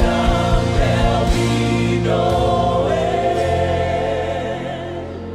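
Gospel worship music with a choir holding sustained notes; a regular drum beat in the first second and a half drops out and the music thins toward the end.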